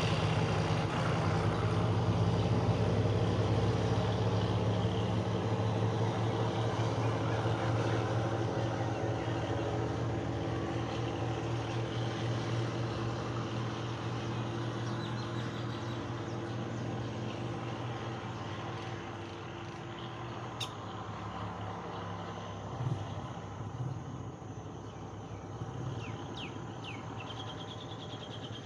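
Diesel locomotive of a departing State Railway of Thailand train running, its steady low engine drone and the rumble of the coaches fading gradually as the train draws away.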